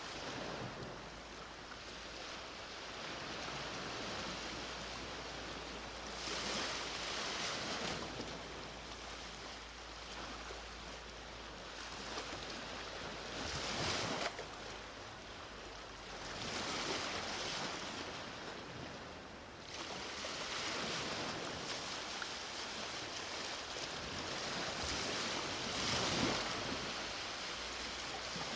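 Ocean waves breaking and washing up on the shore, surging every several seconds, with the loudest surges about halfway through and near the end.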